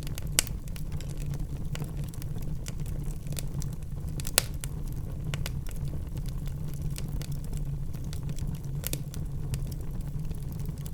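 Wood fire burning in a fireplace: a steady low rumble under scattered crackles, with three louder pops spread through.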